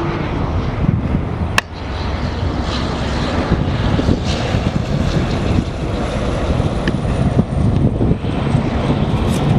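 Strong wind buffeting the microphone: a steady, rumbling roar that swells and eases, with a sharp click about a second and a half in.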